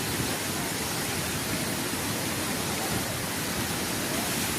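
Water pouring from Srisailam Dam's open spillway gates: a steady, even rushing of falling water.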